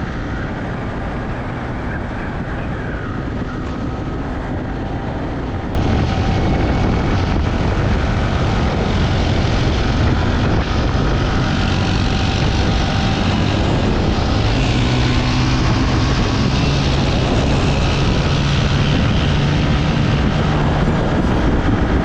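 Yamaha R15 single-cylinder motorcycle riding at road speed, with heavy wind rush over the microphone. It gets suddenly louder about six seconds in, and the engine note rises slightly near the end.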